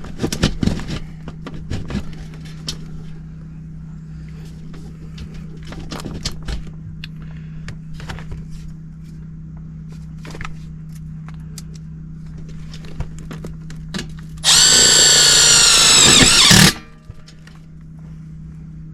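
Light knocks and clicks of handling parts over a steady low hum, then a compact cordless drill runs hard for about two seconds near the end, its motor pitch bending as it loads up.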